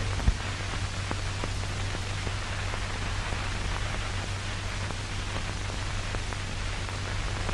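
Steady hiss of an old film soundtrack, with a low hum and scattered crackles and clicks.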